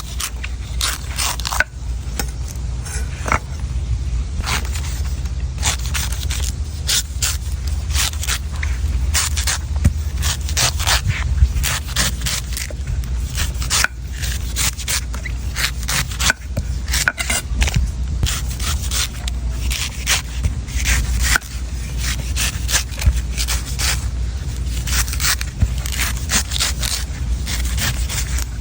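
A knife cutting and shaving a coconut, with a fast, irregular run of sharp scraping strokes over a steady low rumble.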